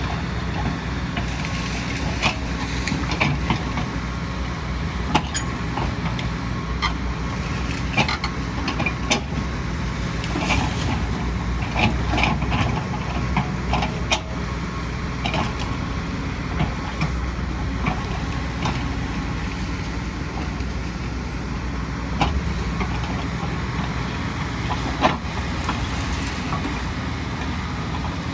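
Diesel engine of a large excavator running steadily under load, with scattered knocks and clanks as the machine works earth and rock.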